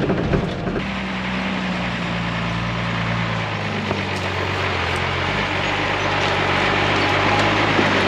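Unimog truck's engine running steadily while it drives over a rough dirt road, a constant low hum under the rush of tyre and road noise, which grows a little louder in the second half.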